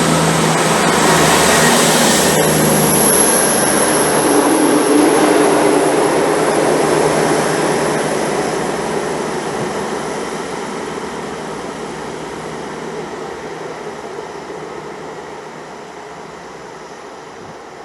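Diesel multiple-unit train moving away: engine and running noise that is loud at first and dies away steadily, with a thin high whine through most of it.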